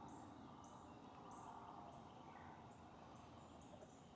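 Near silence: faint outdoor ambience with short, high chirps repeating every half second or so.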